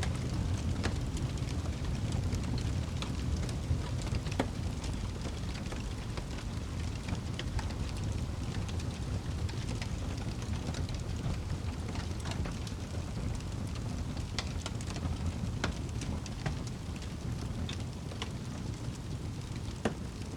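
Wood fire burning in a fireplace: a steady low rumble of the flames with frequent irregular crackles and snaps from the burning wood, and one sharper pop near the end.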